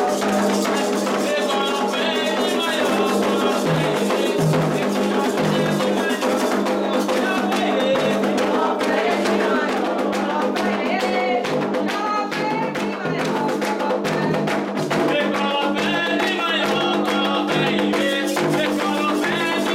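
Candomblé ritual music: atabaque hand drums playing a steady rhythm under sung chanting, with sharp percussion strikes.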